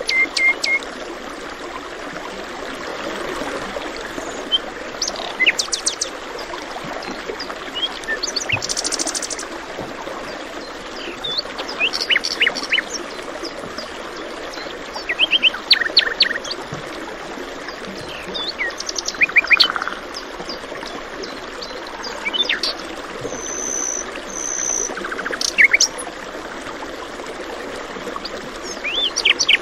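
Several songbirds chirping and trilling in short bursts every few seconds over a steady rush of flowing water.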